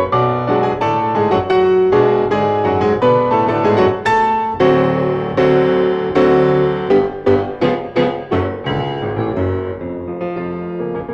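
Classical piano music playing with quick, busy runs of notes.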